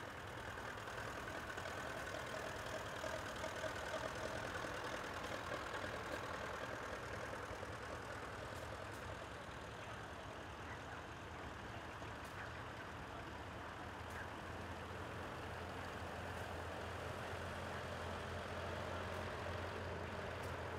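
Vintage tractor engines running steadily. A low engine hum grows stronger about two-thirds of the way through, and some held whining tones come through early on.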